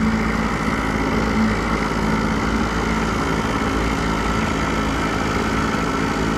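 Boat motor running steadily at a low trolling speed, an even, unchanging hum with a noisy wash over it.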